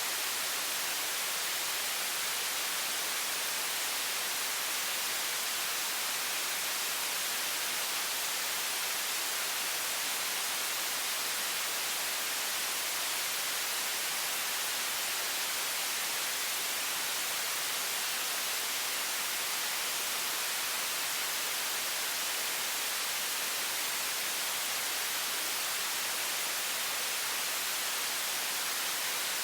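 High-pressure water faucet stream: a steady, unchanging hiss, strongest in the high frequencies, used as white noise.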